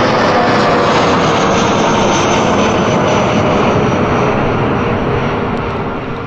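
Airbus A319 airliner departing, its jet engines at takeoff power: a loud roar with whining tones that slowly fall in pitch, beginning to fade about five seconds in.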